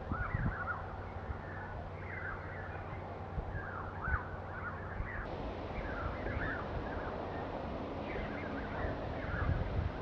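Birds chirping in short, quick phrases again and again. Low rumbles of wind on the microphone come near the start and again near the end.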